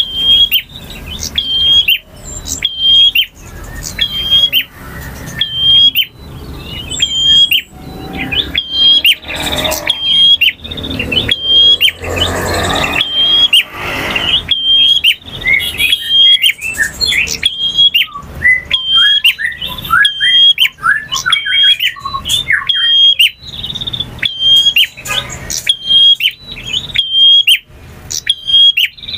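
Male prinia (prenjak) singing: a fast, insistent series of sharp high chirps, a little under two a second. Partway through it breaks into a run of quicker, varied lower notes before the chirps go on.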